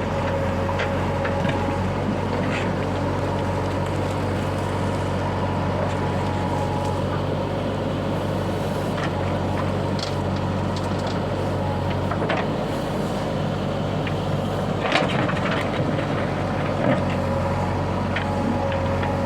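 Diesel engine of a JCB 3DX backhoe loader running steadily under load while loading stone and mud, with scattered clanks and knocks; the sharpest come about fifteen and seventeen seconds in.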